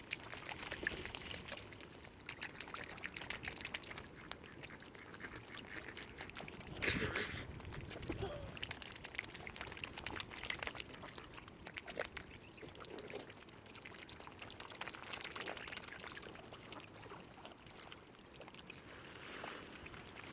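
Waterfowl calling intermittently at the lake edge, with water lapping and trickling. The loudest call comes about seven seconds in.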